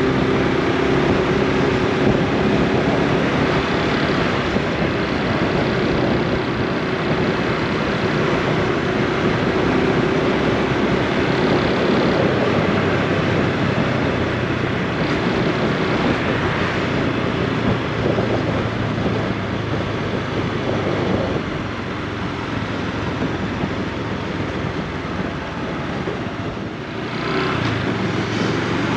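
Honda Super Cub C125's single-cylinder 125 cc four-stroke engine running under way, over a steady rush of noise. It eases off for several seconds past the middle, then picks up again near the end.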